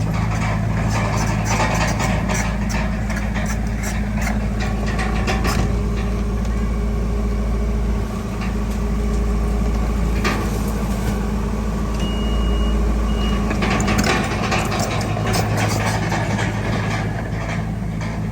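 Komatsu D31PX bulldozer working: its diesel engine runs steadily under the clatter and clanking of its steel tracks, with two short high beeps about two-thirds through.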